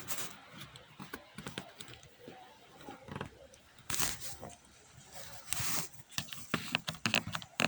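Handling noises from hands working on a kick scooter's broken joint: scattered clicks and knocks, with two short rustling, scraping bursts about four and five and a half seconds in.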